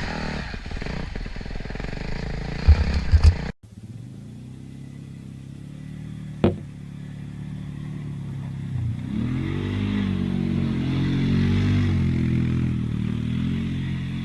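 Motorcycle engine running, then revving with rising and falling pitch in the second half. Earlier there are a few loud knocks and a sudden cut to another clip, and a single sharp click just before the revving.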